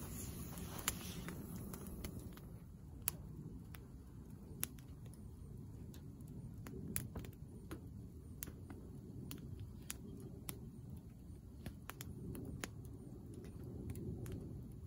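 Wind rumbling on the microphone, with irregular sharp taps scattered through, roughly one a second.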